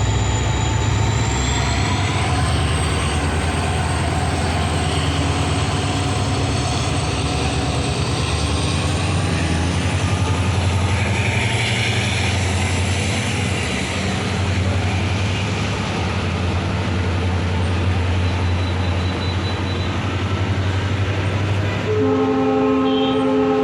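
Express passenger train pulling out of a station, with a steady low rumble from the locomotive and coaches and a thin high whine that slowly rises in pitch as it gathers speed. Near the end the locomotive's horn starts a steady, chord-like blast.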